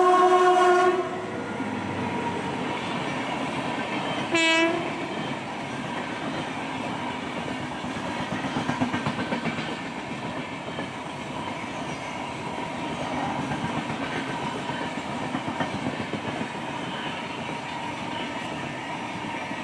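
Indian Railways train horn blast that stops about a second in, a second brief horn blast a few seconds later, then the steady rumble and wheel clatter of an express train passing a local train.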